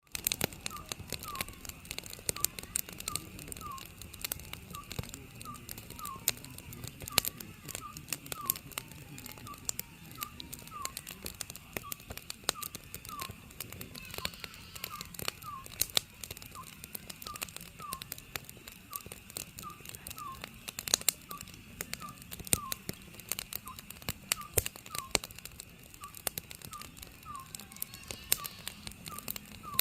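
Oriental scops owl calling, short whistled notes repeated over and over in twos and threes, over a wood fire crackling and popping with irregular sharp snaps.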